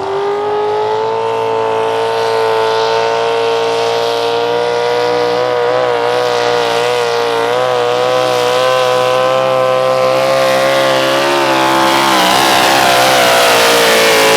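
Pulling vehicle's engine at full throttle during a hook down the track, loud throughout. Its pitch climbs at the start, then holds high and steady, wavering and wobbling from about twelve seconds in.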